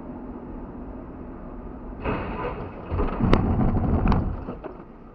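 Vehicle driving noise as heard from a dashcam: steady road and engine rumble that grows louder about two seconds in, with a couple of sharp knocks in the loud stretch before it eases off.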